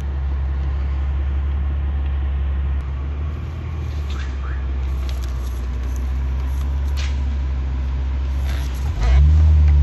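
A car engine idling with a steady low hum, with street traffic noise around it. It swells louder for about a second near the end.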